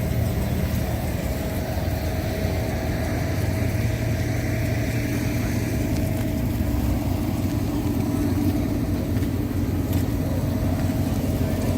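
A car engine running steadily: a constant low rumble with a steady tone above it.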